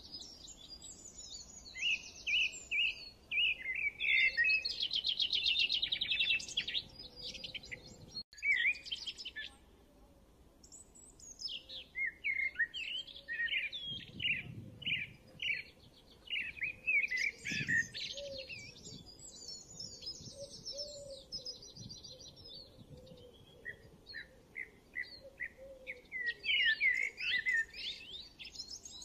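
Songbirds singing: repeated short chirps and fast trills, with a brief lull partway through.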